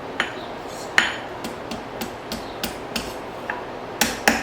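A hand hammer makes light, irregular blows on hot file steel, curling a small scroll into the end of a fire striker. There are about a dozen strikes over a steady hiss, the loudest about a second in and a pair near the end.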